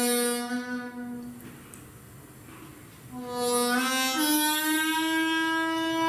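A slow, spontaneous solo lament in long held notes: one note fades about a second and a half in, and after a pause a new note starts, slides up and holds.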